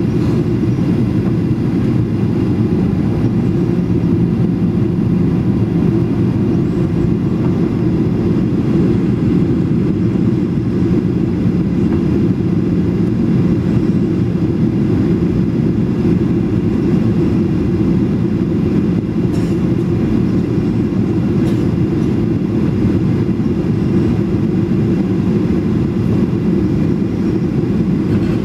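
Steady low cabin drone inside a Boeing 737: jet engine and airflow noise heard from a passenger seat, even in level with no changes.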